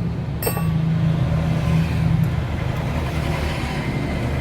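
A motor vehicle engine runs steadily in the background, with one sharp metallic click about half a second in.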